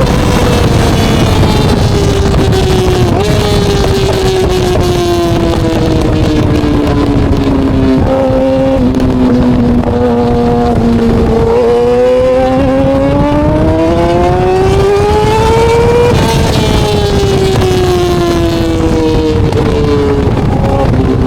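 Yamaha R6 inline-four engine through a RaceFit exhaust, running continuously and loudly. Its note falls slowly for about ten seconds, climbs back up over the next few seconds, then drops away again near the end.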